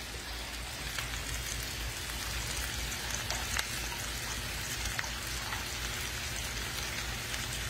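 Hamburger steak patties frying in a cast-iron skillet over a gas burner: a steady sizzle with scattered small pops of spitting fat.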